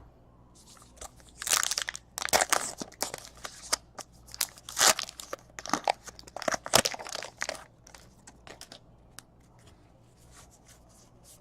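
Baseball card packs being torn open, their wrappers crinkling and rustling in a burst of handling that fades out after about seven seconds.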